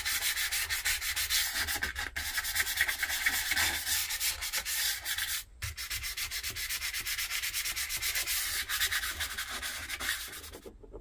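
Hand scrubbing with an abrasive in quick back-and-forth strokes over a surface, pausing briefly twice and stopping near the end.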